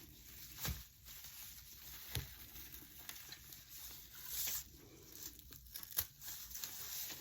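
Dry raffia rustling and crinkling as it is handled and cut, with a few soft clicks scattered through.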